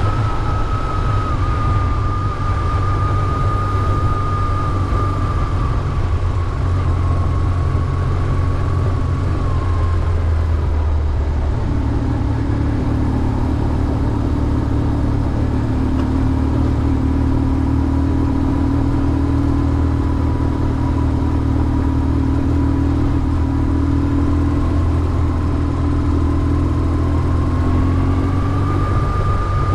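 BMW R1150GS air-cooled boxer twin engine running steadily under way, with a thin whine over it that drops a little in pitch partway through and climbs again near the end.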